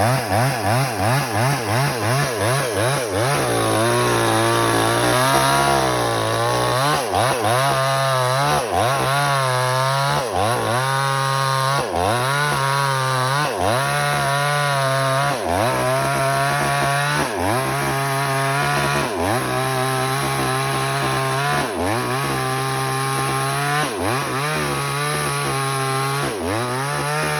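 Motorised wood-cutting saw machine running and cutting wood. Its pitch wavers quickly at first. From about three seconds in it dips and recovers in a steady rhythm about once a second, as each cutting stroke loads it.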